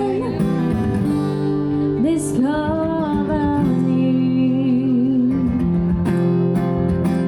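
Live acoustic duo performance: a singer holding long, wavering sung notes over strummed acoustic guitar.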